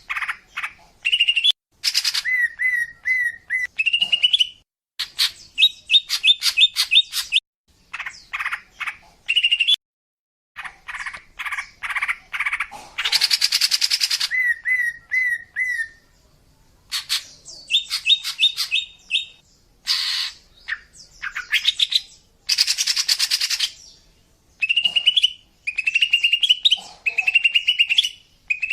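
Female green leafbird (cucak ijo) calling and chirping in a quick run of varied phrases: rapid repeated notes, short rising whistles and trills, and a couple of harsh, scratchy chatters. This is the female's call used as a lure to draw in males.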